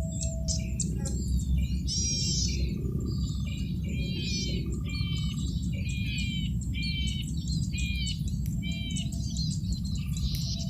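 Male cici padi (a red-headed cisticola) singing, repeating short, rapid chirping phrases a little over once a second, over a steady low background noise.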